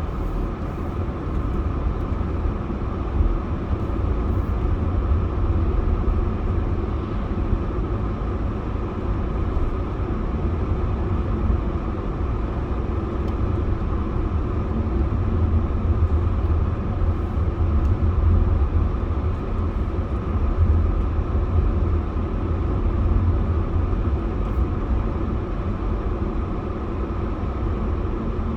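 Steady low rumble of a car driving along a road: engine and tyre noise, even and unchanging.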